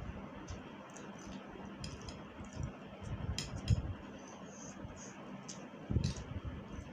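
A person eating spicy noodles close to the microphone: chewing and mouth sounds, soft low thumps and small scattered clicks, over a steady faint hiss.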